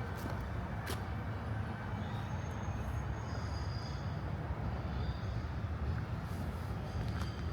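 Steady low rumble of distant city traffic, with a few faint high chirps partway through.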